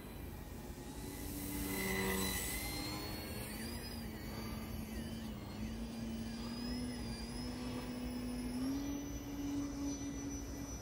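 Electric motor and propeller of a small foam RC 3D plane, an E-flite Eratix, whining in flight with its pitch shifting as the throttle changes. It swells louder about two seconds in as the plane passes close, and the pitch steps up near the end.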